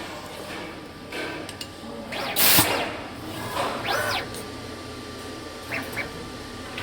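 Soldering robot's axis motors whining, with two sweeps that climb and fall in pitch as the head speeds up and slows down, and a few short chirps near the end. A loud brief burst of noise comes about two and a half seconds in.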